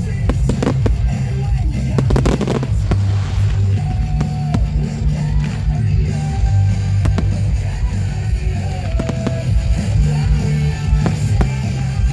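Fireworks banging and crackling over loud rock music with heavy bass played for the display. The bangs come thickest in the first few seconds, then scattered.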